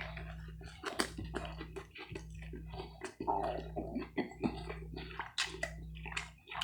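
Small clicks, taps and rustles of handling, over a steady low hum that drops out briefly about once a second.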